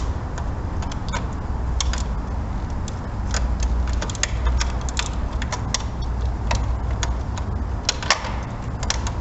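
Irregular light clicks and clinks of hand tools and parts being handled while working on the spark plugs and plug wires, with a few sharper knocks, over a steady low rumble.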